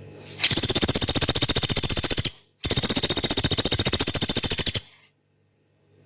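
Pelatuk beras, a small woodpecker, calling two long, very fast rattling trills of about two seconds each, high-pitched, with a short break between them.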